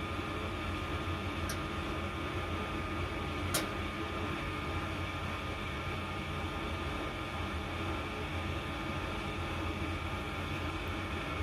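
Goodman gas furnace running with a steady motor hum as it starts a cycle with its flame sensor removed. A single short click about three and a half seconds in.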